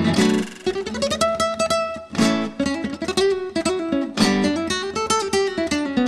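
Background music: an acoustic guitar picking quick runs of notes between strummed chords.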